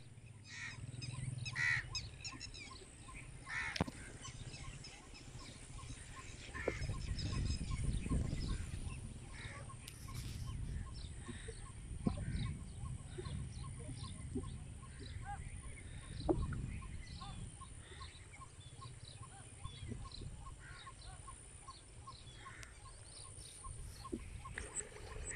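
Birds calling and chirping again and again in short notes, over the low rumble of wind buffeting the microphone.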